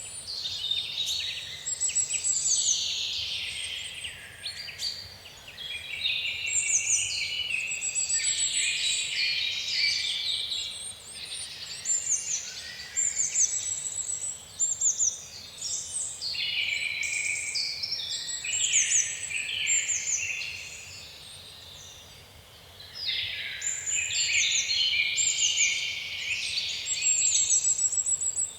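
Several songbirds singing at once: a dense chorus of overlapping chirps and fast repeated high trills, dropping to a lull about three-quarters through before picking up again.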